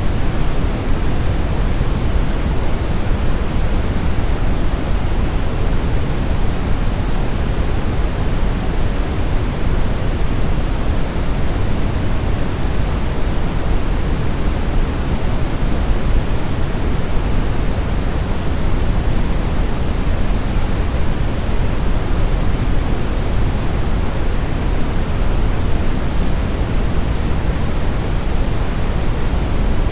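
Steady brown noise: a deep, even rushing hiss with most of its energy in the low end, unchanging throughout.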